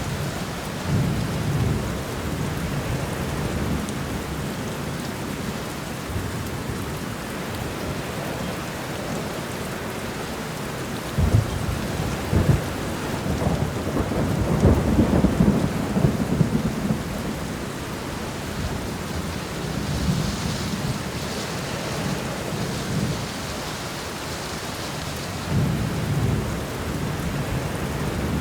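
Steady rain in a forest with rolling thunder: a couple of sharp cracks a little before the middle, then a long rumble, and further low rumbles near the start and toward the end.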